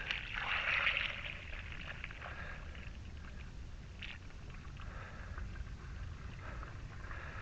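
Hot hydraulic fluid being poured into a filter: a short splashy pour in the first second, then a faint, steady trickle.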